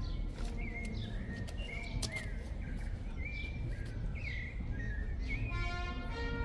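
Small birds chirping in short, inflected calls repeated every half second to a second, over a steady low background noise, with a sharp click about two seconds in. Orchestral music fades back in near the end.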